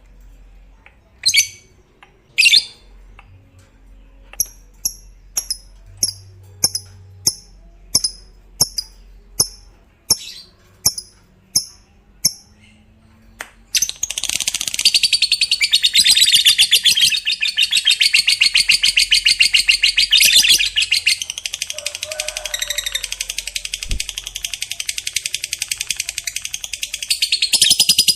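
Lovebird calling: sharp, high single chirps about two a second, then about halfway through it breaks into a long, unbroken rapid chatter, the 'ngekek' song.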